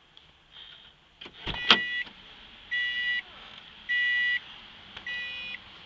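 A sharp knock, then four shrill electronic beeps, each about half a second long and about a second apart.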